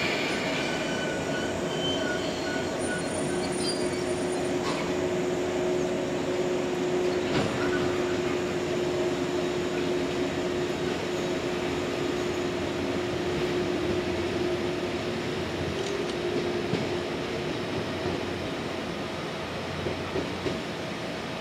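JR West 115 series electric train running along the track as it pulls away, with wheel and motor noise and a steady whine through most of it. The sound slowly fades toward the end.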